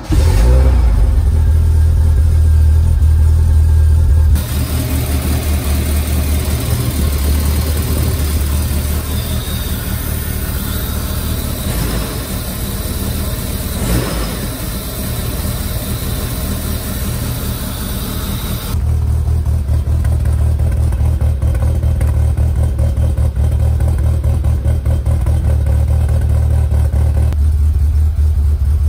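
Toyota AE86's 4A-GE twin-cam four-cylinder catching right at the start and then idling, the freshly rebuilt engine running badly for a cause not yet found. From about four seconds in a loud hiss rides over the idle, heard up close in the engine bay, and drops away again about fifteen seconds later.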